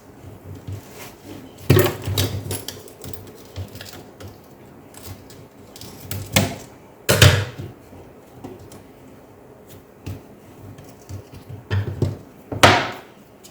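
Hands working on an opened laptop: scattered light clicks and taps of plastic parts, with four louder short scraping or ripping noises.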